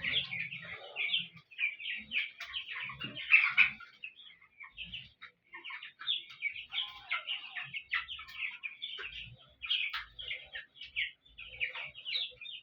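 A flock of three-week-old chickens peeping and cheeping, many short overlapping calls at once.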